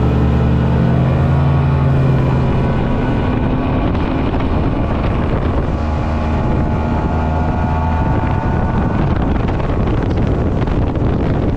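Speedboat's outboard motor running at high speed, a steady engine note whose pitch eases slightly in the first few seconds, under wind rushing on the microphone.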